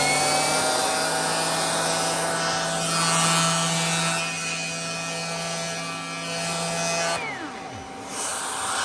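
Vacuum cleaner motor running with a steady high whine. About seven seconds in it is switched off and spins down with a falling pitch, then starts again and whines back up to speed near the end.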